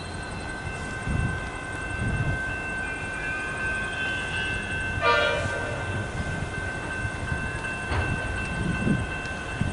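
Metro electric suburban train running, with a steady high-pitched whine over a low rumble. A short horn blast sounds about five seconds in.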